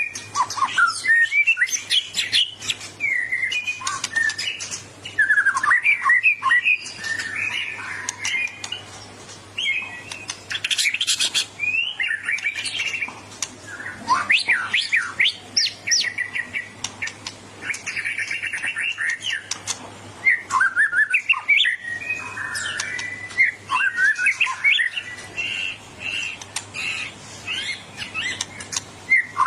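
White-rumped shama (murai batu) singing a fast, unbroken song of varied whistles, chirps and rapid trills, in the aggressive full song of a bird primed to compete.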